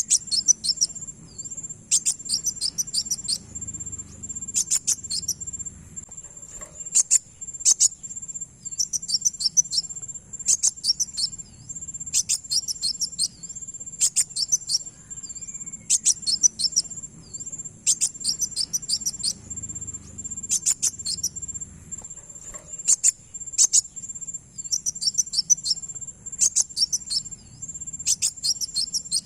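Kowul (kolibri wulung sunbird) song as used for luring birds: quick clusters of very high, sharp chirping notes, repeated every second or two, over a steady high-pitched ringing tone like an insect's.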